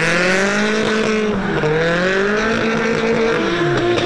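Engines of two Nissan 200SX drift cars, an S14 and an S13, revving up and down while drifting side by side, over a hiss of tyre noise. Near the end one engine's pitch falls away.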